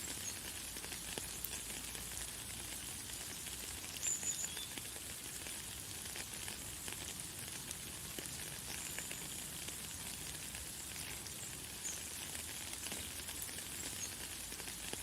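Light, fine rain falling steadily, an even hiss full of small drop ticks. A few short, high bird chirps come through it, the clearest about four seconds in.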